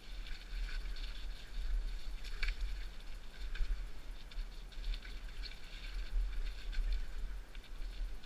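Mountain bike riding over a muddy dirt trail: tyres on the ground with many quick rattles and clicks from the bike, over a steady low rumble.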